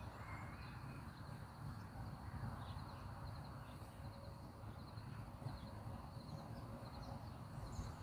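Faint outdoor background: a steady low rumble with small, high chirps repeating in quick groups of two or three.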